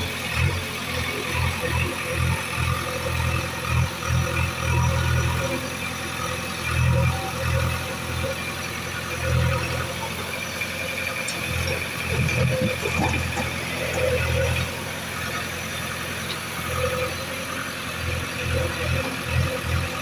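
Engine of a heavy machine running, its low note swelling and easing again and again, as under changing load.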